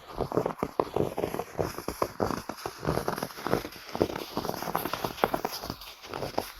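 Footsteps crunching through snow, one crisp crunch after another with no pause.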